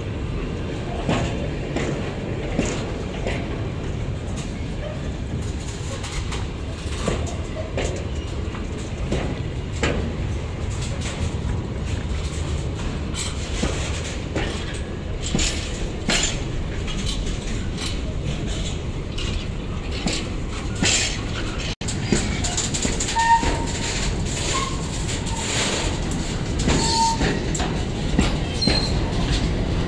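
Intermodal freight train's wagons, loaded with semitrailers and containers, rolling past close by: a steady rumble with irregular clicks and clacks of wheels over the rail joints.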